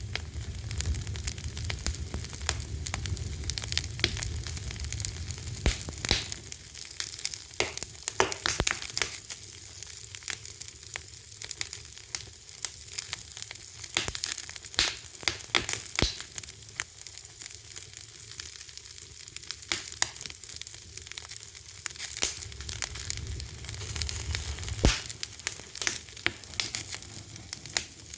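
Wood fire crackling: a steady hiss with frequent sharp, irregular pops and snaps, and a low rumble of the flames that fades about a third of the way in and returns near the end.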